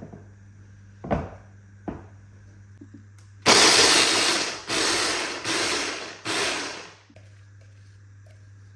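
A few light knocks, then an electric blender run in four short pulses of about a second each, stopping about two seconds before the end, over a steady low hum.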